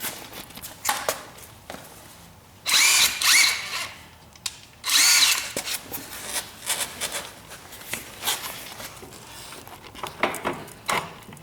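Impact wrench run in two bursts of about a second each on a bolt, its motor speeding up and slowing down, with small clicks and clatter of tools between. The socket on it is the wrong size.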